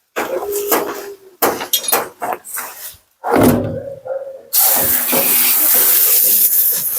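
Bath noises around a Siberian husky in the tub, with a short whine from the dog early on, then a bath sprayer turns on about four and a half seconds in and runs with a steady hiss of water.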